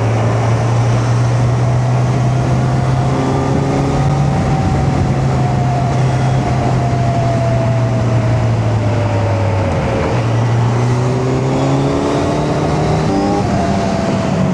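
Kawasaki Z900's inline-four engine running at steady cruising revs under a constant rush of wind. The engine note dips briefly about ten seconds in, then comes back higher and climbs again near the end.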